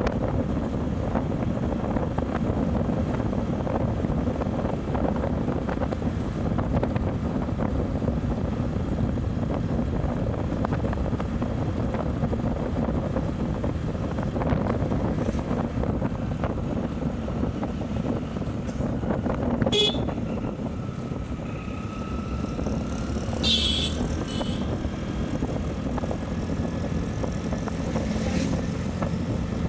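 Motorcycle riding along: steady engine and road rumble mixed with wind on the microphone. A few short sharp clicks come about twenty seconds in and again a few seconds later.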